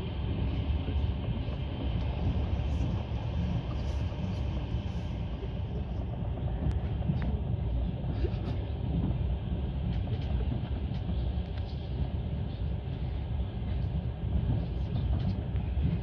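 Passenger train running with a steady low rumble that does not let up.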